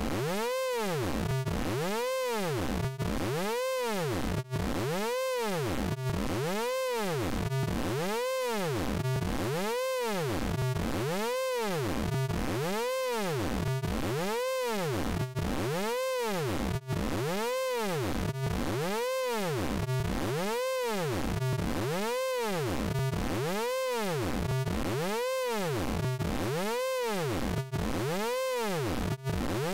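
Synthesized vocoder sound effect from the Orange Vocoder plugin: a buzzy electronic tone that sweeps up and down in pitch over and over, about four sweeps every three seconds, at a steady level.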